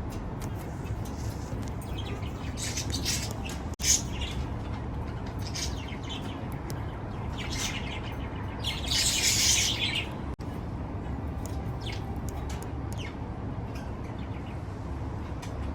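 Baby budgerigar chicks chirping in many short, high calls, with a longer, louder burst of calling about nine seconds in, over a steady low background rumble.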